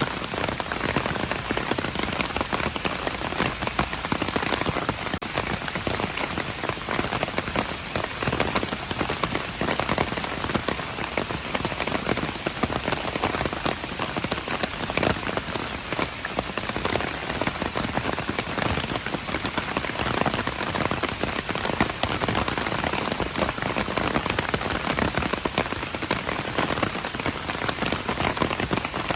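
Steady rain falling on hard surfaces, a dense continuous patter of many drops.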